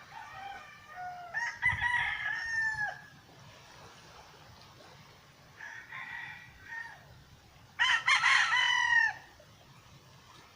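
Roosters crowing: a long crow in the first three seconds, a fainter crow around six seconds, and a loud crow near eight seconds.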